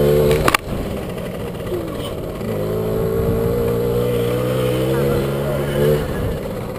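Mini dirt bike engine running at a steady speed. There is a sharp click about half a second in, then the engine drops away and comes back about two and a half seconds in, holding steady until it fades near the end.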